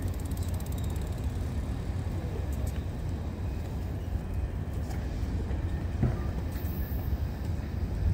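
Bilevel passenger train running away along the station tracks: a steady low rumble, with a brief knock about six seconds in.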